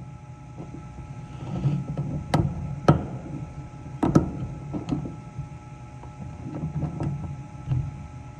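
A steady low hum with a few sharp clicks and knocks, the loudest in the first half: metal parts and tools being handled while a heat pump's outdoor unit is serviced.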